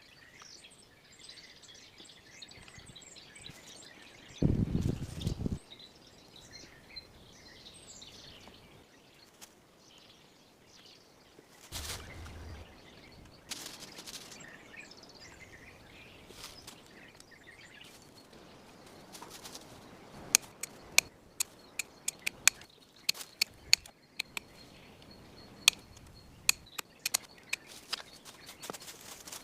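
Small birds chirping in the forest. About five seconds in comes a short, heavy low thud, and through the last third a run of sharp, irregular clicks and knocks.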